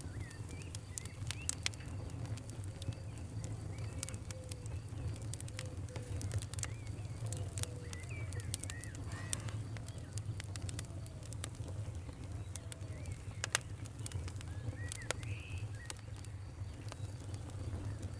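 Wood fire crackling: irregular sharp pops and snaps over a steady low rumble, with one louder pop about three quarters of the way through. Faint short chirping glides sound throughout.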